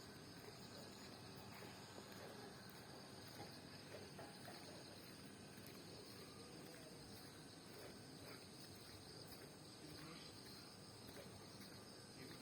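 Near silence with a faint, steady high-pitched chorus of insects.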